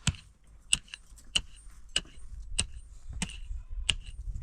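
Hammer blows at a steady pace, about one every two-thirds of a second, each a sharp strike with a brief metallic ring, as when driving nails into wood.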